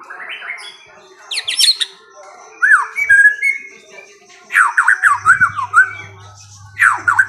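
A songbird singing in bursts of quick, downward-slurred whistles and chirps, with short pauses between phrases.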